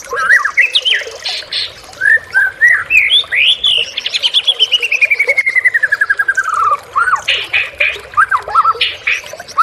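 White-rumped shama (murai batu) singing a varied song of clear whistles. Near the middle it gives a long, rapid trill that falls steadily in pitch, and a few harsh rasping notes come before and after it.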